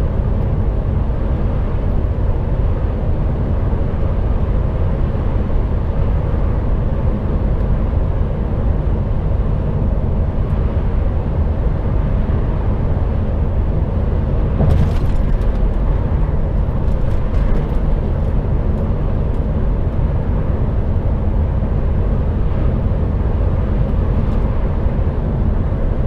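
Steady low drone of an HGV truck cruising at motorway speed, heard inside the cab: engine and road noise. A few faint clicks come in the middle.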